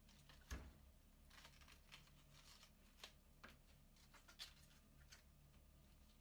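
Knife cutting cabbage into thin strips: faint, irregular crisp cuts, with a sharper knock about half a second in.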